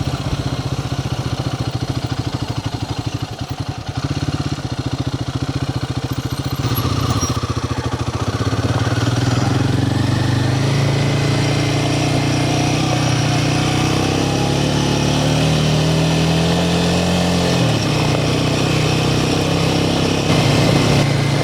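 Royal Enfield Himalayan 450's single-cylinder engine running under way, with a low, pulsing beat at first. Then its pitch climbs steadily as the bike accelerates, and it drops sharply a few seconds before the end.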